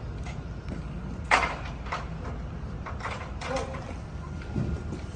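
A 24-foot ground ladder being handled, with one sharp clank a little over a second in and several lighter knocks after it, over a steady low rumble.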